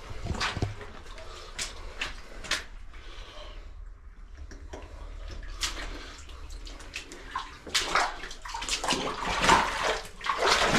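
Irregular splashing, scuffing and knocks of a person picking his way through a narrow, wet cave passage, the sound growing louder and busier over the last few seconds.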